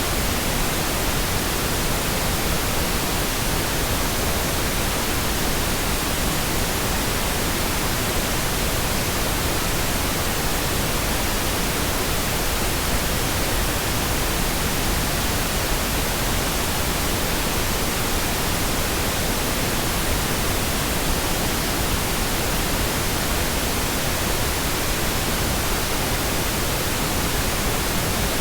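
Steady synthetic pink noise: an even, unchanging hiss spread across the whole range with extra weight in the low end, constant in level throughout.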